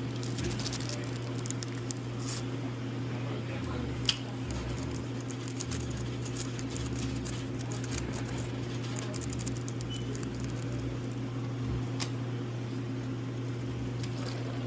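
Semi truck engine droning steadily, heard from inside the cab, with scattered light ticks and a couple of sharp clicks.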